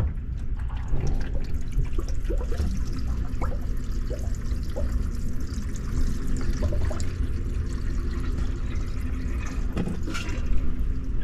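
Water running and gurgling through an HVAC condensate drain line and its P-trap, with short bubbling blips over a steady low hum.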